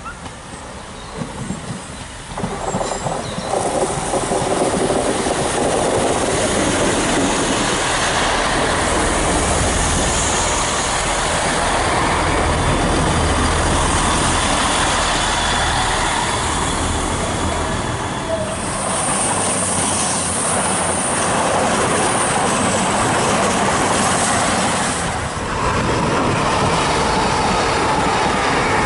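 Diesel multiple unit approaching and passing at close range: its engines and wheels on the rails build up over the first few seconds and then stay steady. From about two-thirds of the way through, a high wheel squeal sounds for several seconds; after a short dip, the rumble of a passing train carries on to the end.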